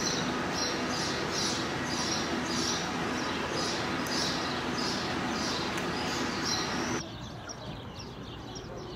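Small birds chirping over and over, about twice a second, above a steady outdoor background noise with a faint low hum. About seven seconds in the background drops suddenly, and fainter chirping goes on.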